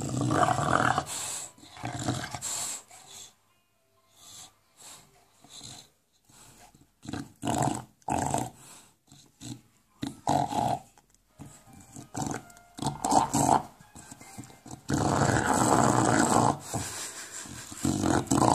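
English bulldog play-growling and grunting in irregular bursts while chewing on a tennis ball, the "monster sound" of a bulldog at play rather than in aggression. The longest, loudest stretch comes near the end.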